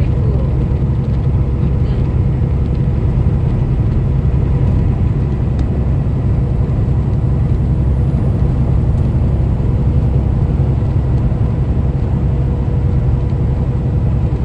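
Steady deep rumble of a semi-truck's engine and road noise heard inside the cab while cruising at highway speed.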